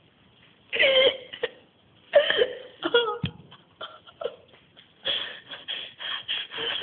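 A person's voice making wordless cries and sounds of distress, in three bursts.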